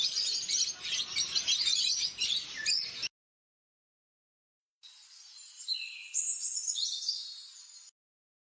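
Two separate bird recordings: about three seconds of dense, busy chirping, then after a short silence about three seconds of clear whistled notes that jump up and down in pitch.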